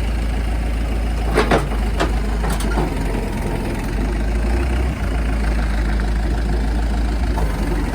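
Diesel engine of a TCM FA35D forklift running steadily at idle, with a few brief sharp sounds about one and a half to two and a half seconds in.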